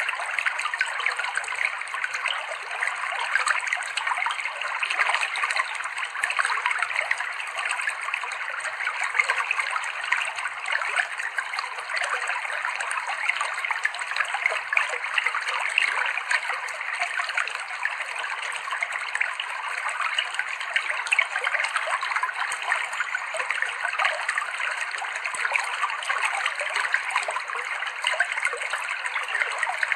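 Clear, cold river water flowing and babbling steadily over rocks.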